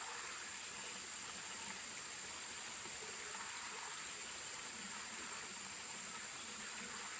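Steady, high-pitched insect drone from the surrounding forest, with a faint even wash of stream water beneath it.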